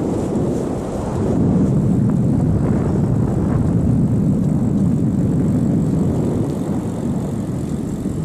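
Wind buffeting the microphone and tyres rolling on a trail while riding a bicycle: a steady low rumble that grows a little louder about a second in.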